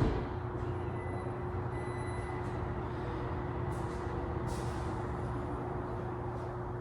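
A steady mechanical hum with a constant droning tone, unchanging throughout.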